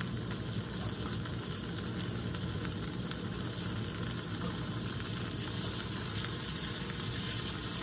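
Food frying in a hot pan, a steady sizzle with a few faint crackles.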